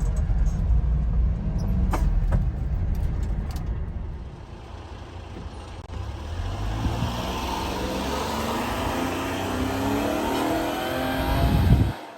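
Honda Acty mini truck's small three-cylinder engine running, at first a heavy low rumble with a couple of sharp knocks about two seconds in, then its pitch rising steadily as it accelerates through the second half before cutting off suddenly near the end.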